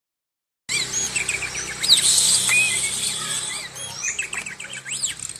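Oriental magpie-robin (kacer) singing a fast, varied song of chirps, whistles and rising and falling sweeps. The song starts abruptly after a moment of dead silence. The bird is in moult yet still singing fully.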